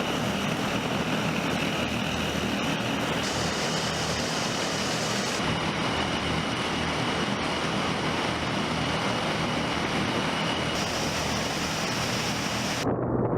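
Tu-95 bomber's four turboprop engines with contra-rotating propellers running with a steady, heavy drone and a faint high whine. The sound changes abruptly several times, as between separate shots.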